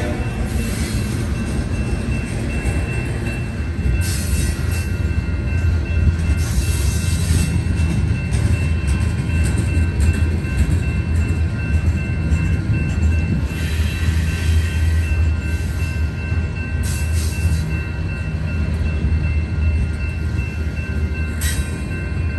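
Military freight train's flatcars rolling past: a steady low rumble of wheels on rail, with short spells of high hissing from the wheels several times.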